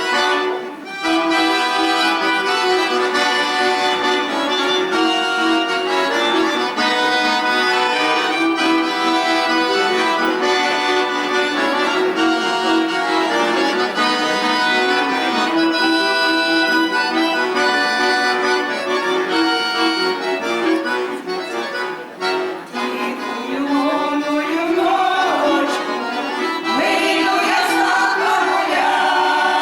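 Accordion playing a folk-style melody with chords. Voices begin singing over it in the last few seconds.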